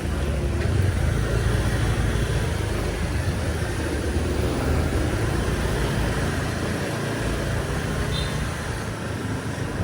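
Street traffic: the steady running of vehicle engines passing along a city street.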